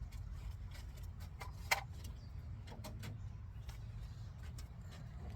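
A few light clicks and knocks of metal parts being handled while a car radiator is fitted, one sharper knock a little under two seconds in, over a low steady rumble.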